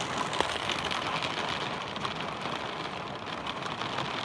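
Steady rain falling: an even hiss dotted with many fine ticks of drops, with one sharper tick about half a second in.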